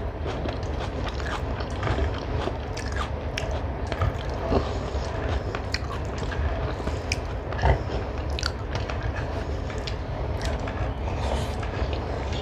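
Close-miked chewing and wet mouth sounds of someone eating rice and chicken curry, with many small sharp clicks, over a steady low hum.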